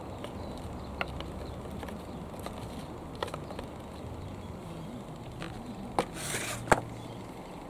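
Hand-handling noises from fitting an electric fan motor into a plastic fan housing: a few scattered clicks and knocks, with a brief scrape just after six seconds and a sharp click soon after.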